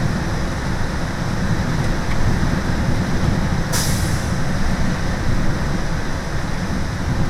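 School bus diesel engine and road noise heard inside the cabin while driving, a steady low rumble. A short hiss about four seconds in.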